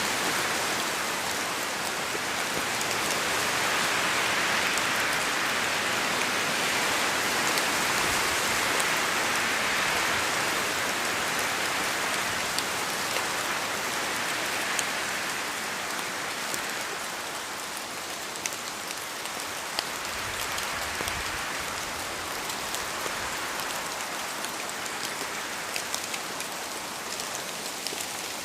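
Steady rain falling through a forest, with wind in the trees swelling louder for several seconds near the start and then easing. Scattered sharp drips tick out above the rain in the latter half.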